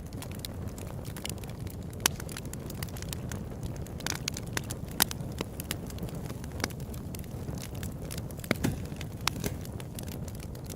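Open-air campfire burning: a steady low rumble of flames with frequent, irregular sharp crackles and pops, a few of them louder than the rest.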